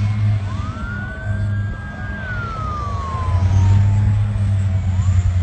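An emergency vehicle's siren wailing over a steady low rumble: it rises, holds high, slowly falls, then starts rising again near the end.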